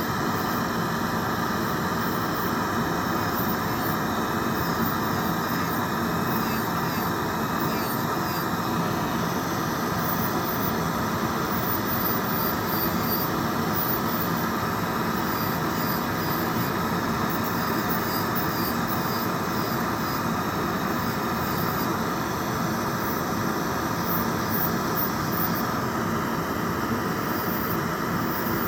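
Electric nail drill (e-file) running continuously at high speed with a steady whine, filing gel off nails.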